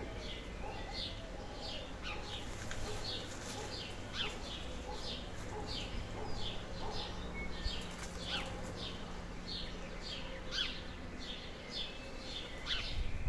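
A bird chirping over and over, short high notes that slide downward, about two a second.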